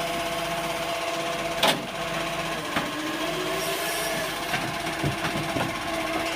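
Truck engine running steadily, with a few sharp clanks and a short rising whine a little past halfway.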